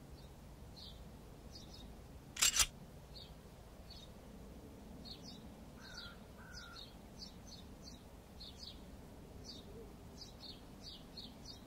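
Small birds chirping faintly, short high chirps repeating throughout, with one loud, sharp sound lasting a fraction of a second about two and a half seconds in.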